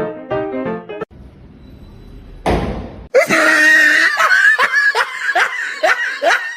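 Piano music breaks off. After a brief rush of noise, a loud run of short, shrill cries follows, each rising in pitch, about three a second.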